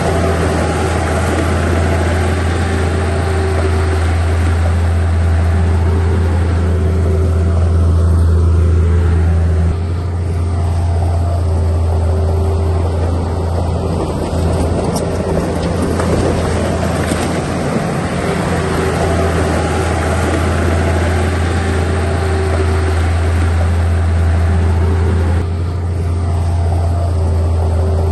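Heavy diesel engine of earthmoving equipment running steadily, with a deep, constant drone. It eases slightly about a third of the way in and changes again near the end.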